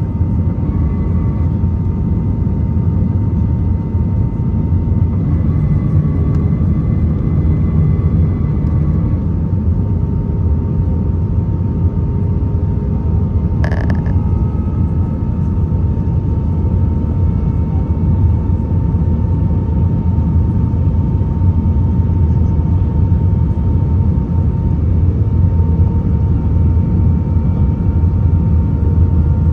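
Airbus A320 cabin noise heard from a passenger seat: a steady low rumble of the engines and airflow, with a faint steady whine above it. A brief higher-pitched sound cuts through about fourteen seconds in.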